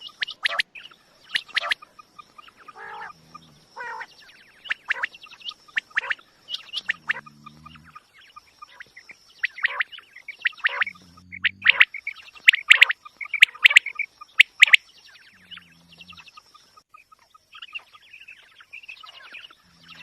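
Quail calling over and over in clusters of sharp, quick notes, several calls overlapping, used as a hunting lure call. A short low sound recurs about every four seconds, under a faint steady high tone.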